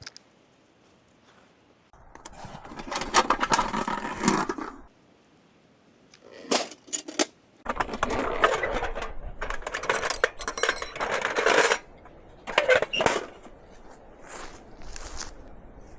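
Small metal objects clinking and clattering as they are handled, in several irregular bursts after a quiet first two seconds.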